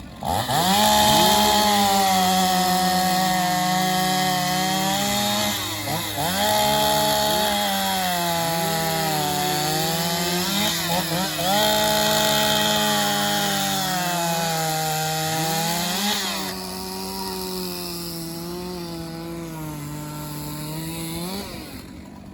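Two-stroke chainsaw coming in at full throttle with a high, steady engine note that sags and recovers about three times as the chain bites into wood. After about sixteen seconds it drops to quieter, steadier running, and it stops shortly before the end.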